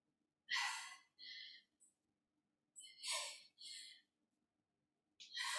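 A woman breathing hard during exercise: three pairs of forceful breaths, each a strong breath followed by a softer, shorter one, about every two and a half seconds in time with her reps. A faint steady low hum lies underneath.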